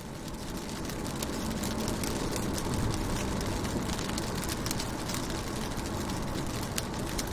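Rain falling on a car's windows and body, heard from inside: a dense patter of drop ticks over a steady low rumble. The sound swells up over the first second or so, then holds steady.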